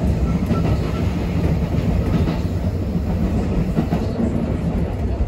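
Kintetsu electric local train running along the track, heard from inside the car just behind the driver's cab: a steady low rumble of wheels and running gear.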